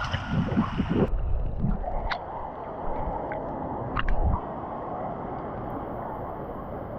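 Pool water sloshing and gurgling close to the microphone, with splashy clicks. About a second in the sound turns suddenly muffled, leaving a steady dull hiss with a few clicks.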